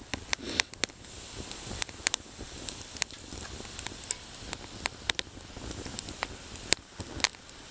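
Split kindling burning in a small Lixada wood camp stove, crackling with irregular sharp pops over a low steady hiss.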